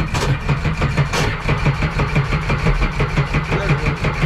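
A race jet ski's engine turning over on its electric starter in a fast, even chug of about nine beats a second, cranking without catching: a cold engine that won't start.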